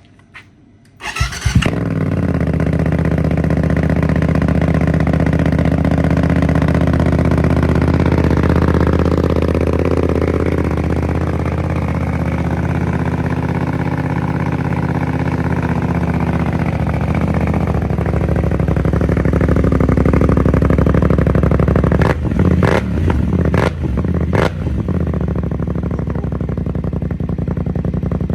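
BMW F900R's parallel-twin engine, breathing through a Dominator exhaust with the dB killer removed, is cranked and starts about a second in. It then idles loud and steady. Near the end come a few sharp cracks.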